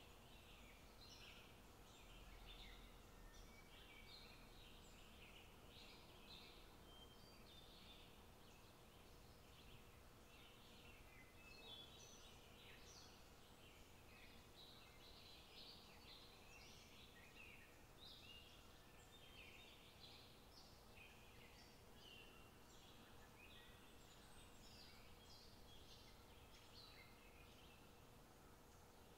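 Near silence: faint, frequent bird chirps over a faint steady hum.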